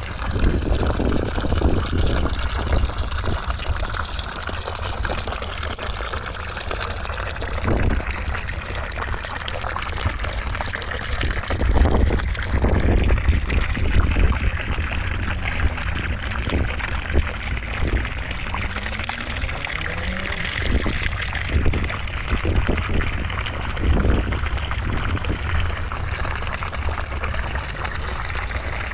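Continuous white noise: a steady rushing hiss that spreads evenly across all pitches, with its tone drifting slowly, much like running water.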